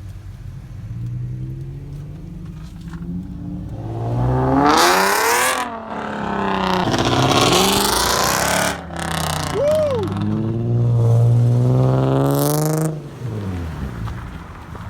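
Car engines revving hard and accelerating in three loud bursts, from about four seconds in to about thirteen, the engine pitch climbing and falling through each one. There is a brief high squeal about ten seconds in.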